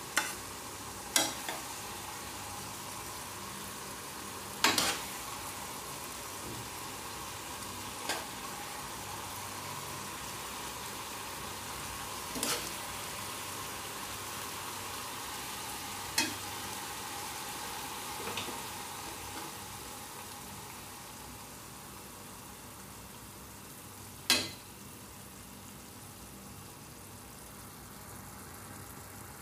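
Stir-fried chicken breast and long beans in sauce sizzling steadily in a pan while a metal spoon scoops it out, clinking sharply against the pan or plate about seven times.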